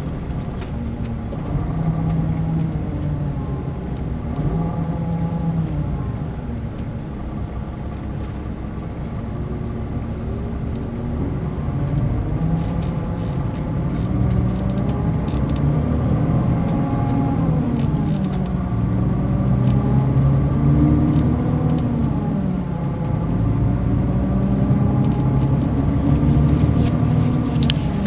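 Mercedes-Benz O500 RSD BlueTec5 coach's diesel engine running under way, its pitch rising and falling several times as the engine speed changes.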